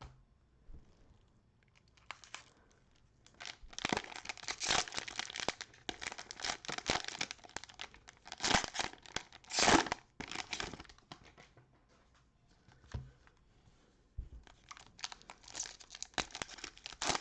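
Cellophane wrapper of a trading-card cello pack crinkling and tearing as the pack is opened, in irregular bursts with a few seconds' pause about two-thirds of the way through.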